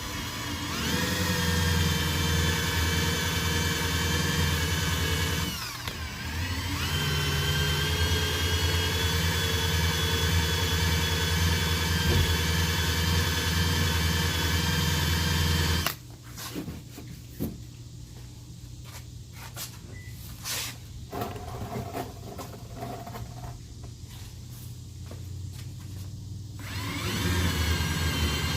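Drill running at low speed against a truck door, wearing off old double-sided molding tape. It spins up, slows briefly and picks up again about six seconds in, and stops suddenly around sixteen seconds. A quieter stretch with a few light clicks follows, then the drill starts again near the end.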